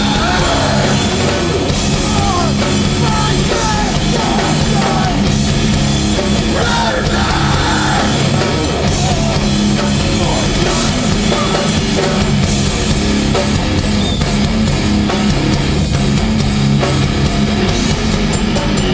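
Live hardcore band playing at full volume: distorted electric guitars, bass and a pounding drum kit, loud and steady without a break.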